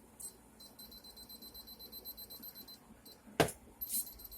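Electronic moisture meter giving a faint, high-pitched, rapidly pulsing beep for a couple of seconds, then a sharp click about three and a half seconds in.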